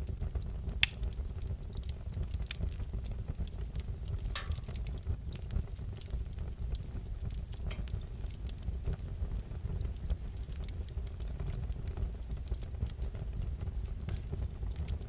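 Wood fire in a fireplace crackling: scattered irregular sharp pops and snaps over a steady low rumble of the flames, with one louder pop about a second in.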